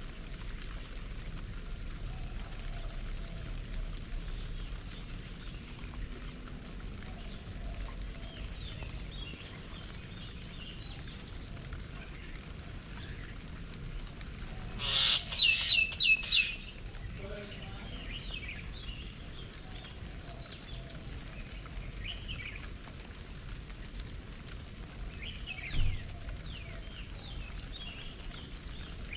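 Garden birds calling and chirping, faintly and scattered, over a low steady background. About halfway through, one bird gives a loud run of about four quick, sharp notes.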